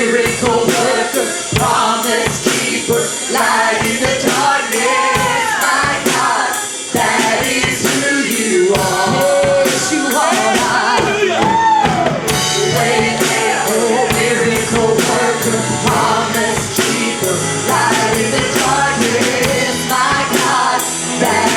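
Live church worship music: a band with drums and a steady percussion beat behind singers' voices.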